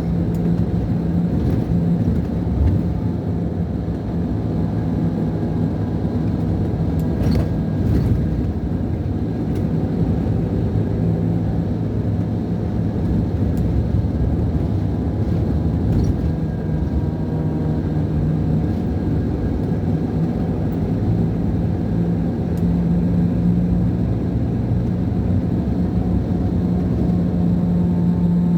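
Scania DC13 inline-six diesel of a Scania K440 IB coach, heard from inside the cabin, running at a steady pitch. The engine note weakens a little around eighteen seconds in and comes back strong about twenty-two seconds in, with a few light clicks along the way.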